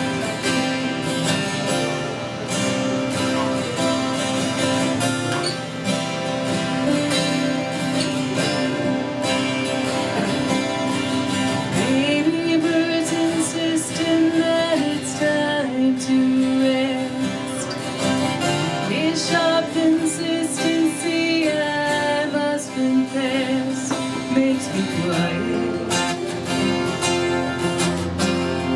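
Live acoustic guitar playing the opening of a folk song, with a gliding melody line coming in about twelve seconds in.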